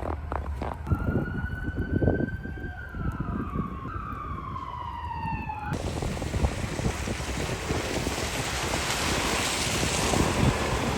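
A vehicle siren wailing, rising and then sliding down in pitch, over crunching footsteps in fresh snow. Just past the middle the siren cuts off suddenly and a steady hiss of wind on the microphone takes over, with the footsteps going on.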